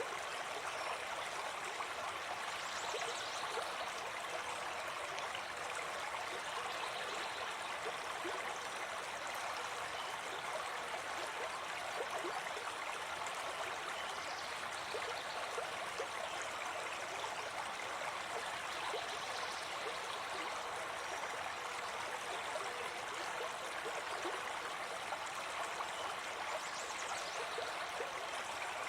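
Forest stream flowing steadily, an even rushing and gurgling of water, with a few faint high bird chirps now and then.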